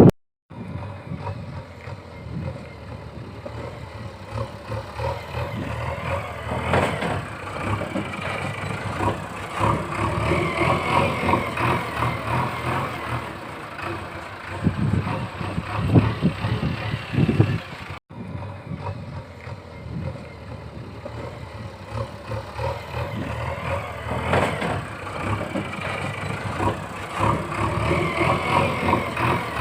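Heavy truck engine running, with the level and pitch swelling up and down, played as a looped soundtrack. It breaks off briefly about 18 seconds in and starts over.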